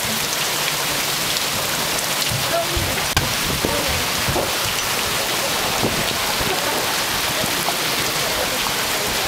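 Heavy rain from a rainstorm falling steadily, a dense even hiss of drops, with one sharp knock about three seconds in.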